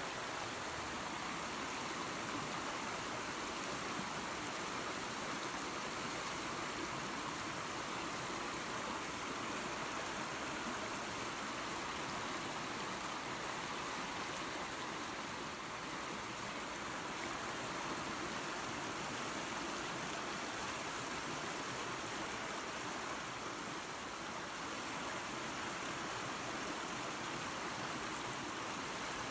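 Small waterfall and creek running water: a steady, even rush of falling and flowing water.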